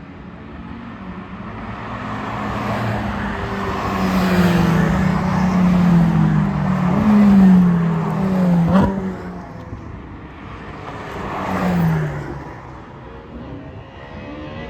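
Ferrari sports cars driving past in a slow parade. One engine grows louder and drops in pitch as it goes by about halfway through, with a sharp crack just after. A second car passes a few seconds later.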